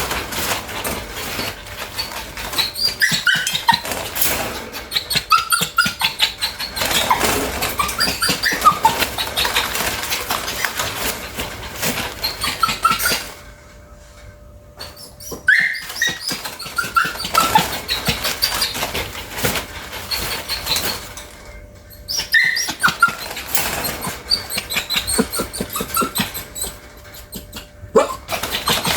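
Bichon dog whimpering in short, high whines, mixed with many quick clicks and scuffs, with two brief lulls. The restless whining is the kind a dog makes when it needs to go out to poop.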